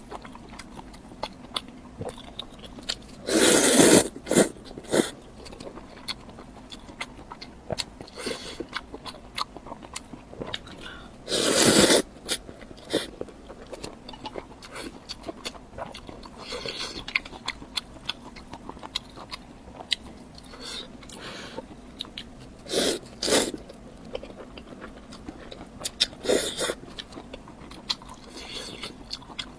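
Close-miked eating: loud crunching bites about four and twelve seconds in and a couple more near the end, with chewing and small mouth clicks in between.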